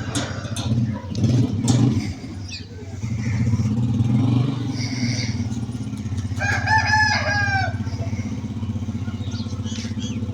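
A rooster crows once, a call of about a second and a half starting some six seconds in. Under it runs a steady low engine rumble, with some knocks and clatter in the first two seconds.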